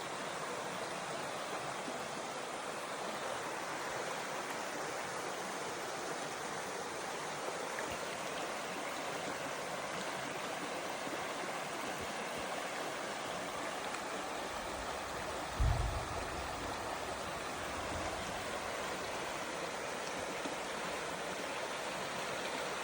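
Steady rushing and splashing of water flowing over a small waterfall into a stream. About two-thirds of the way through there is one brief low thump.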